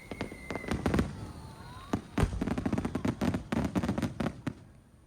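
Fireworks bursting overhead in a rapid barrage of bangs and crackles, with the loudest reports about one second and two seconds in; the volley stops about four and a half seconds in.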